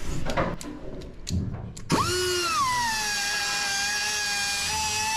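A few light clicks and knocks, then about two seconds in a power drill starts up with a high whine that drops in pitch and then runs steadily.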